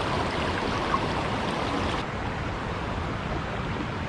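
Steady rushing of water at a dam spillway, an even wash of noise that eases a little about two seconds in.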